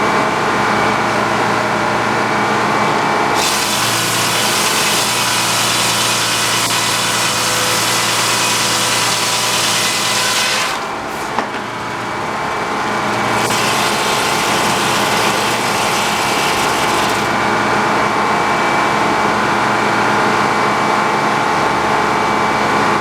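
Sawmill running under power, its blade cutting through a log in two long passes of loud rasping saw noise over the steady hum of the mill's engine.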